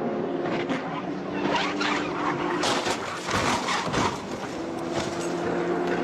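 Race car engine running at a steady pitch. About a second and a half in comes a stretch of harsh noise with sharp cracks, and the engine tone returns about four and a half seconds in, rising slowly.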